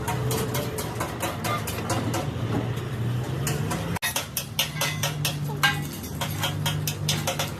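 Many quick metallic clinks and taps over a steady low hum, with an abrupt cut about four seconds in.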